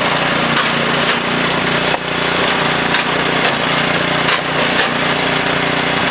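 Small engine of a flywheel-type log splitter running steadily, with several sharp cracks and knocks as logs are split and pieces thrown.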